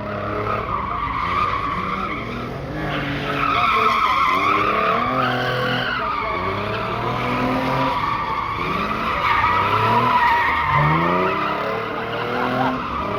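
A car drifting: its tyres squeal with a wavering pitch while the engine revs rise and fall again and again.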